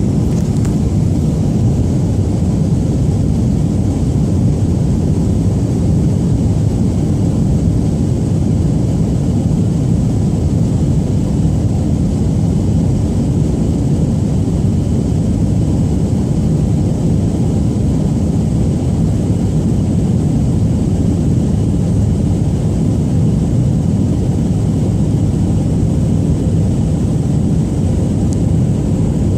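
Steady low rumble of jet engines and rushing air inside an airliner's passenger cabin in flight, with a thin, steady high whine above it.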